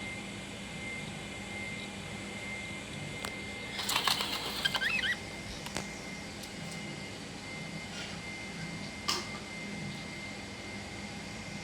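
Budgerigars chirping: a short burst of quick chirps and clicks about four seconds in, and one brief call about nine seconds in, over a steady hum.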